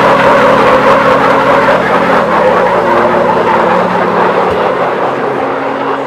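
A loud truck engine running hard at steady high revs, easing off slightly near the end.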